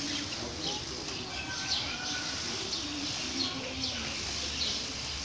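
Small birds chirping repeatedly, short high notes over a low murmur in the background.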